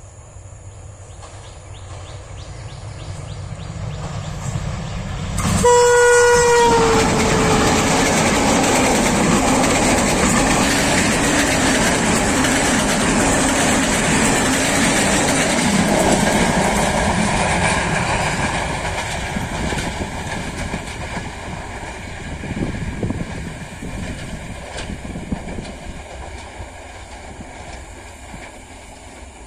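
Sri Lanka Railways M11 diesel locomotive hauling an express train, approaching and passing close by. The train noise builds, then the horn gives one blast of about a second and a half, its pitch dipping slightly at the end. The locomotive and coaches then pass in a loud rush, and the wheel clatter fades as the train moves away.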